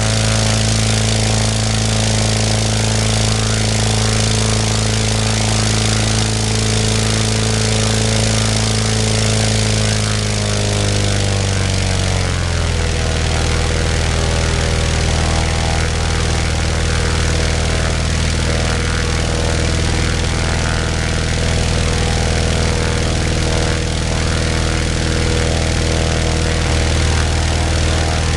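Global half-VW two-cylinder four-stroke boxer aircraft engine running its propeller at a steady speed. It is throttled back about ten seconds in, the pitch falling over a couple of seconds, and then runs on steadily at a lower speed.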